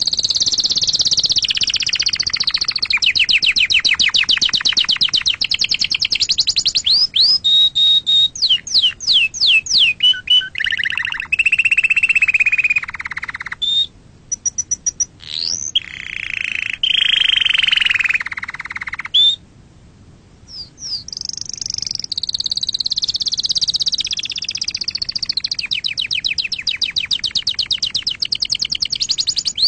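Domestic canary singing a long song of fast rattling trills and rapidly repeated notes, with lower buzzing rolls in the middle and two short breaks.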